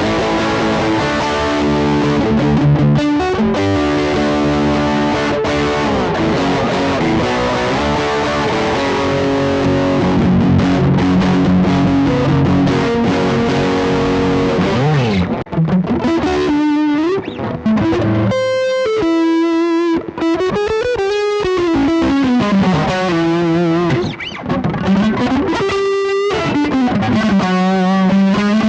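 Overdriven electric guitar played through a Behringer GDI21 preamp pedal and a Cuvave ODrive Blues overdrive, giving an amp-like distorted tone. It plays thick chords and riffs at first, then, about halfway, single-note lead lines with string bends and vibrato.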